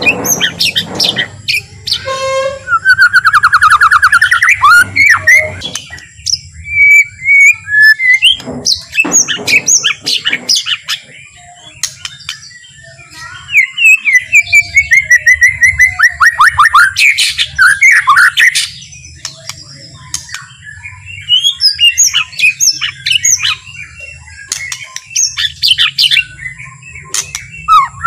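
White-rumped shama (murai batu) singing: loud phrases of varied whistles and rapid trills, broken by short pauses.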